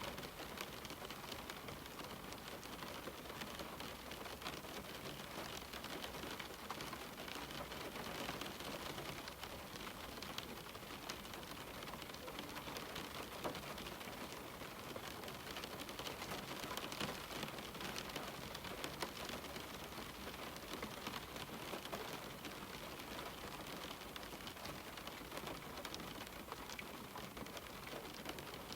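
Steady rain falling on a window, an even hiss dense with small drop patters.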